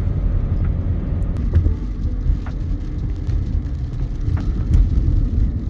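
Steady low rumble of a car's engine and road noise, heard from inside the cabin while driving, with a few faint ticks.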